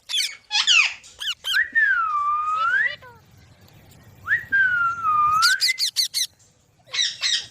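Pet green parrot calling: quick chirps, then two long whistles that dip in pitch and rise again, and a run of rapid chirps near the end.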